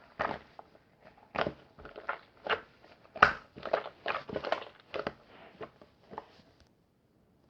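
A person biting and chewing crunchy food close to the microphone: a string of crackling crunches, about two a second, that stops about a second before the end.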